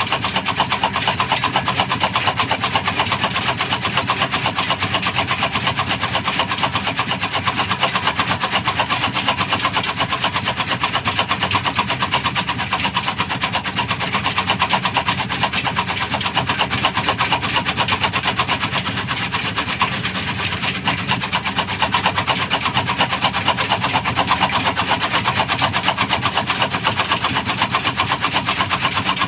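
Black Peter single-cylinder diesel engine running steadily, a fast, even thumping of exhaust beats, driving a chaff cutter.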